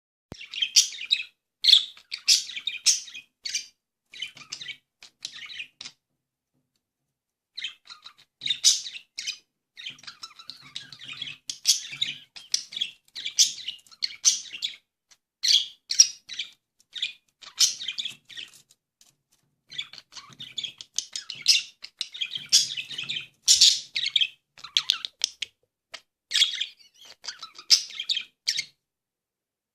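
Budgerigars chattering and warbling: quick runs of high chirps and tweets in bursts, with a pause of a couple of seconds about a quarter of the way in.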